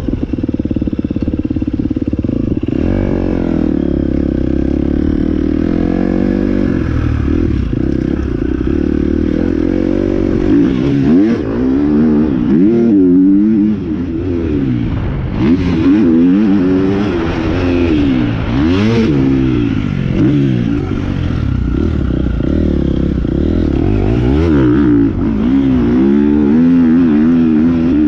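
Motocross dirt bike engine, running at a fairly steady pitch at first, then revving up and down over and over from about ten seconds in as the bike is ridden through the gears.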